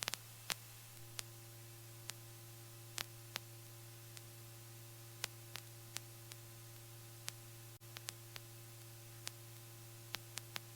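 Near silence: a faint steady electrical hum with a thin tone, and about twenty short, irregular clicks scattered through it. No engine or rotor noise is heard.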